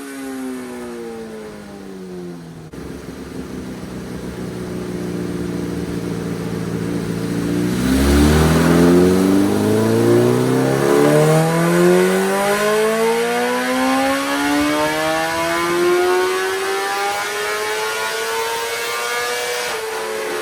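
BMW M1000R's inline-four engine running through an Austin Racing titanium exhaust on a dyno. The revs fall at first and hold steady for a few seconds; then, about 8 seconds in, the throttle opens and the pitch climbs steadily for about twelve seconds in a full-load dyno pull before dropping off near the end.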